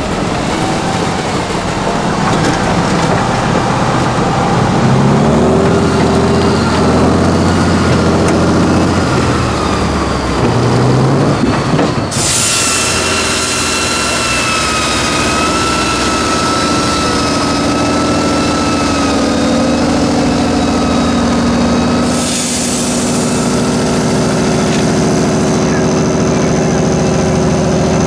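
Tatra 8x8 truck's turbo diesel engine running and revving as it works through the off-road course. About twelve seconds in, a high steady whine rises over the engine and holds.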